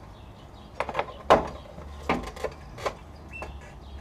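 A motorcycle front wheel being worked out of the forks: about five clunks and knocks of metal parts, the loudest about a second and a half in, over a low steady hum.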